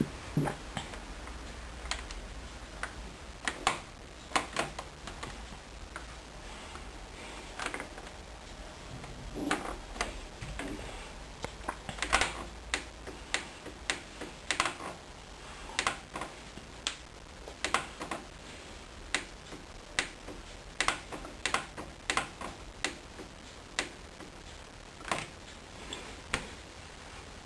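Sharp plastic clicks, one or two at a time at uneven intervals, from the control panel of a Hoover Dynamic Wash washing machine as its program selector and buttons are worked.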